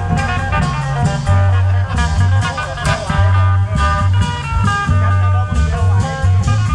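Isan klong yao procession band playing: a plucked-string melody over heavy pulsing bass and drums.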